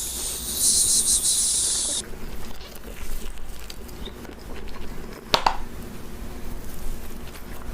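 Slime being worked by hand, crackling and popping. A bright hiss fills the first two seconds and one sharp pop comes about five seconds in.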